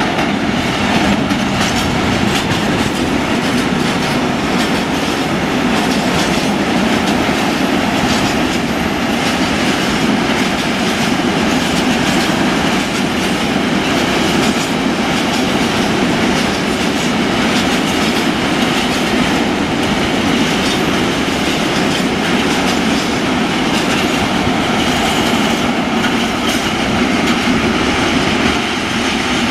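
A long train of tank wagons, hauled by a Euro Cargo Rail class 247 diesel locomotive, rolling steadily past. Wheels rumble on the rails with a continuous clatter over the rail joints, unbroken throughout.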